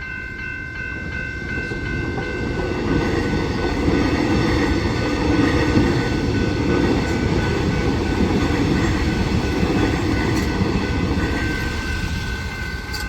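X'Trapolis 100 electric suburban train passing through a level crossing, its rumble growing over the first few seconds, holding, then easing near the end. The crossing's bells keep ringing over it.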